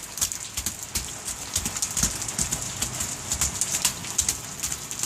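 A small child's water shoes stomping and splashing in a rain puddle: quick, irregular slaps, with rain falling steadily.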